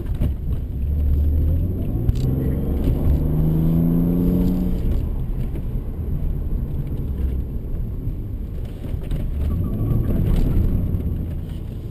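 Mercedes C32 AMG's supercharged 3.2-litre V6 accelerating, heard from inside the cabin: its pitch rises steadily for about three seconds, then drops back, with a second, shorter rise near the end, over steady low road rumble.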